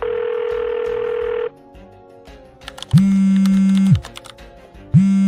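Phone call being placed: a steady tone for about a second and a half, then the ringing tone heard by the caller, one ring about three seconds in and another starting near the end.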